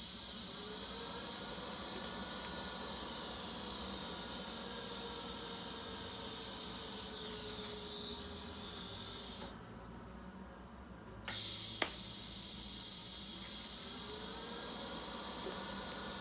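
TIG welding arc hissing and buzzing steadily as a cast iron manifold is welded to a stainless steel V-band, its current worked by the foot pedal. The arc cuts out for about two seconds a little past the middle, then restarts with a couple of sharp cracks.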